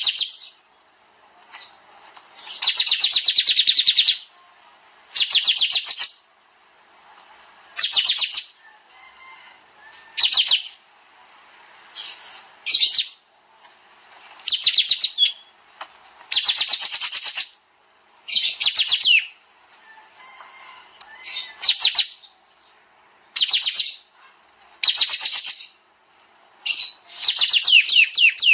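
Kapas tembak songbird singing in rapid, rattling trilled phrases, each a second or two long, repeated again and again with short gaps between them.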